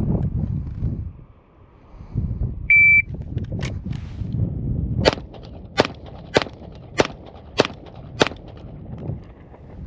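Shot timer beeps once with a short steady tone, then a Springfield Armory Prodigy 9mm pistol fires six rapid shots about 0.6 s apart in a bill drill.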